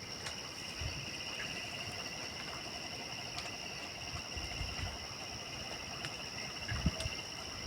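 Crickets chirring steadily at night in a continuous high trill. A few soft low thumps and faint clicks come through now and then.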